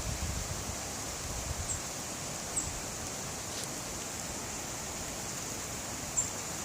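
Wind blowing through trees: a steady rustling hiss of leaves, with heavy wind buffeting on the microphone dying away right at the start. A few short, high chirps sound about two seconds in, a little later, and again near the end.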